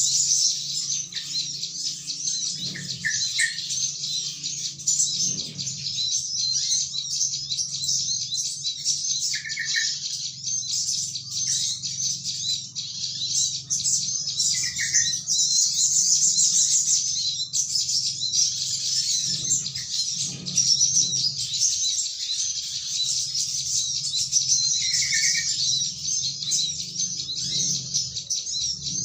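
Dense, continuous high-pitched chattering of a flock of small birds, used as a lure call. Short, lower bubbly calls break in about five times, which the lure pairs with the call of a trucukan (yellow-vented bulbul). A faint steady low hum runs underneath.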